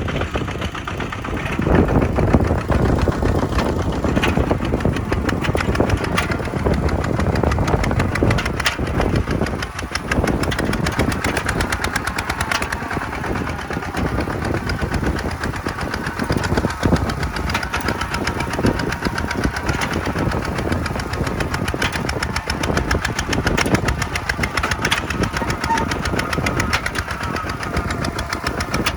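Kubota tractor's diesel engine running steadily with a fast clatter, swelling louder about two seconds in.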